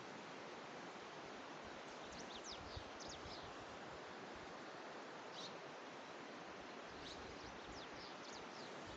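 Small birds chirping in short, quick high-pitched runs, in three bursts, over a steady rushing hiss of outdoor background noise.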